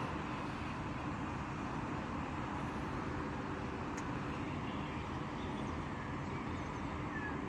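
Steady city traffic noise, with a few faint high bird calls in the second half.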